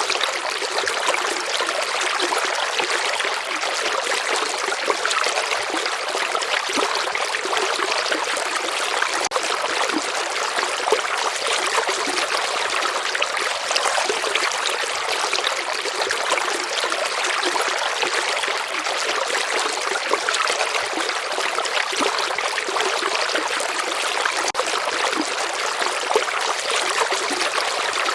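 A river's water flowing and trickling steadily, an even rushing and babbling that sits high, with little low rumble.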